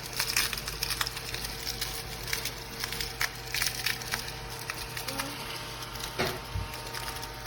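ODISTAR cordless mini desktop vacuum running over crumbs on a countertop: a steady faint motor hum with many small clicks and crackles as the crumbs rattle under it. It is not picking up the larger crumbs.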